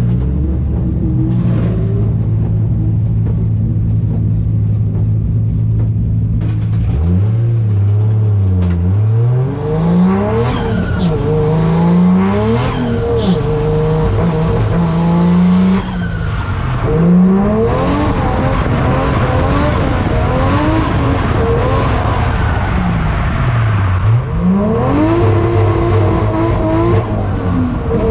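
Nissan 240SX's swapped Toyota 1JZ straight-six idling steadily, then from about seven seconds in revving up and down again and again as the car is driven hard on a drift practice run.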